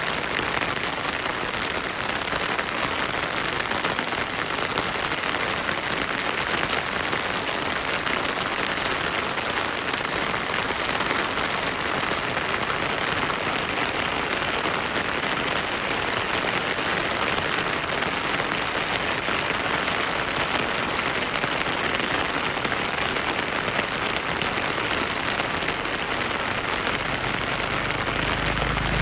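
Heavy rain falling steadily as a dense, even hiss of drops, with a low rumble building in the last couple of seconds.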